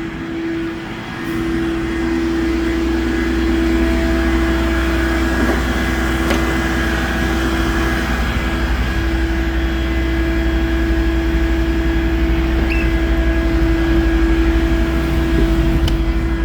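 Tow truck's engine running steadily, a low rumble that picks up about a second in, with a steady whine held over it throughout.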